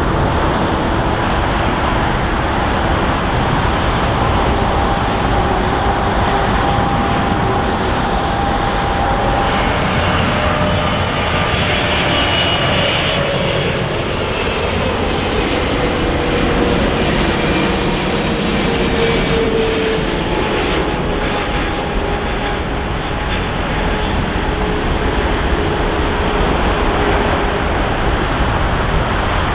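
Twin-engine jet airliners running at close range: a loud, steady rush with whining engine tones, some of which slowly fall in pitch as an aircraft passes.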